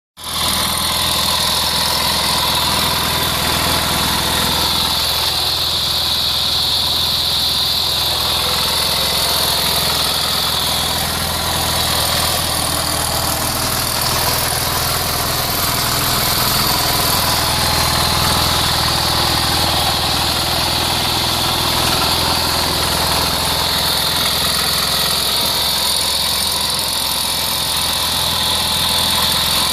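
Small diesel road saw engine running steadily, with a steady high-pitched whine over the low engine note.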